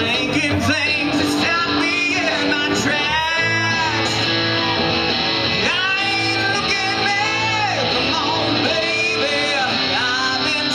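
Live rock performance: a man singing over guitar and band accompaniment, his held notes wavering in pitch.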